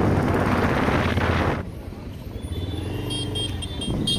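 Motorcycle on the road: wind rushing loudly over the microphone for about the first second and a half, then dropping away to a steady low engine hum, with high pitched tones sounding in short repeats over it in the second half.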